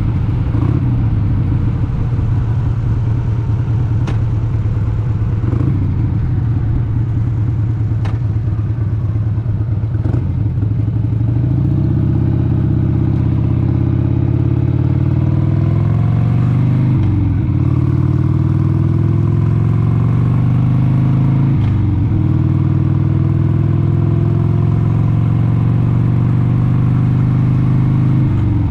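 1996 Harley-Davidson XLH883 Sportster's air-cooled 883 cc V-twin running under way. It holds a steady speed with a few brief throttle dips, then revs rise through a couple of gear changes with short drops in pitch, about halfway through and again a few seconds later, before it settles back to a steady cruise.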